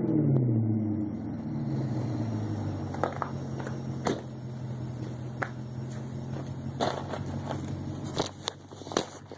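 Muffler-deleted BMW 545i's 4.4-litre V8 exhaust with the revs falling back from a blip and settling into a steady idle within the first second or two. A few sharp clicks and crackles come over the idle.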